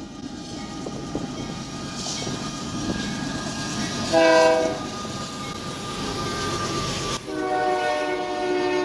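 A locomotive's multi-chime air horn sounds a short, loud blast about four seconds in and a longer blast near the end, over the steady rumble of a passing train.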